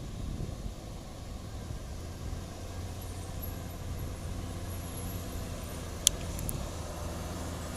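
Diesel engine of a heavily loaded sugarcane truck running steadily with a low hum, with one sharp click about six seconds in.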